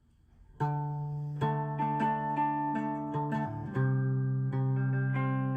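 Acoustic guitar strumming chords as background music, coming in about half a second in after a short quiet, with the chord changing a few times.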